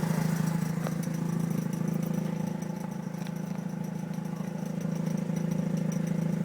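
2004 Mazda RX-8's 1.3-litre twin-rotor Renesis rotary engine idling steadily.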